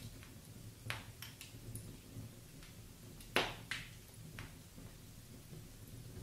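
Wood fire in a fireplace crackling: scattered sharp pops and snaps from the burning logs over the low, steady rumble of the flames. The loudest pop comes about three and a half seconds in, with a smaller one just after it.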